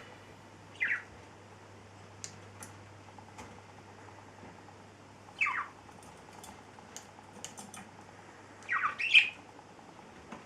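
Parrot squawking: short, sharp calls falling in pitch, about a second in, again midway, and a louder double call near the end, with faint scattered clicks between them.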